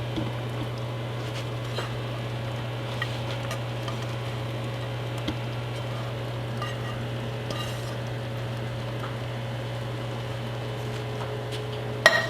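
A pot of kare-kare cooking on the stove, with a steady low hum beneath it and occasional light clinks of a utensil against the pot. A sharp knock of cookware comes near the end.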